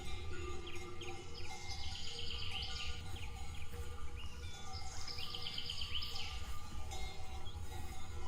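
A songbird singing two short trilled phrases, over a steady low rumble of forest ambience.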